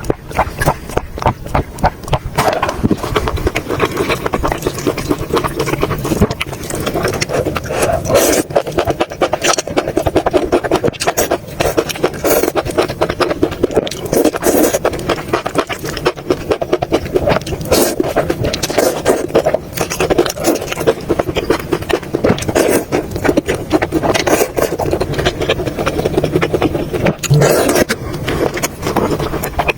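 Close-miked eating sounds: chewing and mouth sounds making a dense, irregular run of clicks and smacks.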